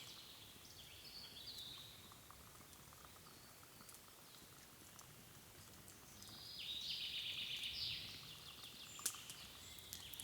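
A songbird singing two quick, high trilled phrases that step down in pitch, the second and louder one lasting about a second and a half. A single sharp click comes near the end.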